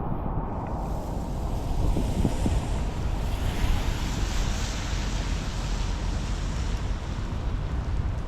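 Steady rain hiss with a low rumble of wind buffeting the microphone. The hiss swells brighter about three seconds in and eases near the end.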